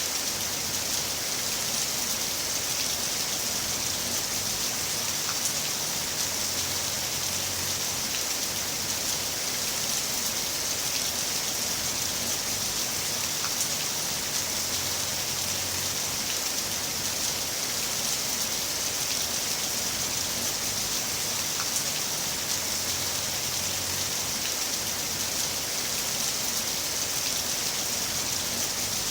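Heavy rain falling steadily, an even hiss with single drops ticking through it.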